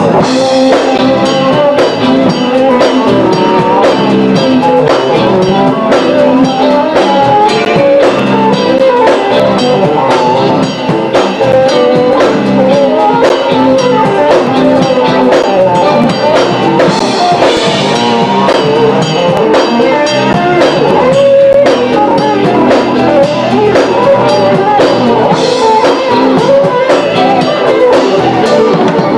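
Band playing a song with drum kit and guitar, loud and continuous, with no words transcribed.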